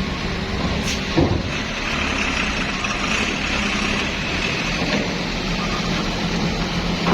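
Bus engine running steadily at a low hum, with a short knock about a second in and a faint high steady tone joining from about two seconds.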